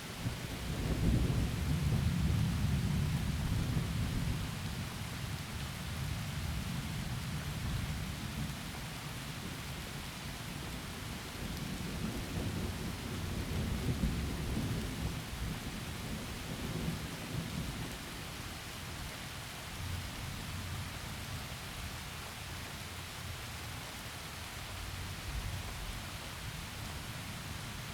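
Heavy rain falling steadily, with rolling thunder: a deep rumble swells about a second in and rolls on for several seconds, swells again midway, then fades.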